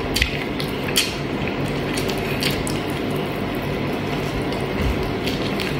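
Close-miked mukbang eating sounds: a person chewing chicken adobo and rice eaten by hand, with sharp wet mouth clicks and smacks at irregular moments over a steady low hum.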